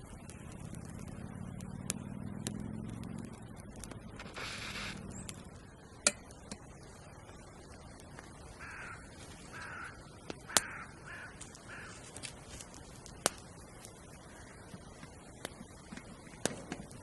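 A crow cawing, a quick run of about five caws a little past the middle, with scattered sharp snaps and cracks that are louder than the calls.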